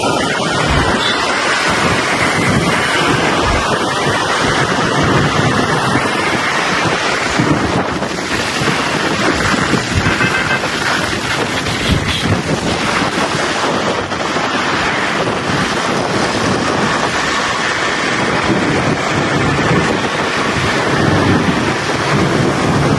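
Steady wind rushing over the microphone of a moving motorbike, with the bike and the surrounding traffic underneath.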